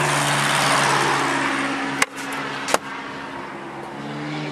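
A vehicle engine idling with a steady hum, under a broad hiss that swells and fades over the first two seconds. Two sharp clicks come about two seconds in and again just under three seconds in.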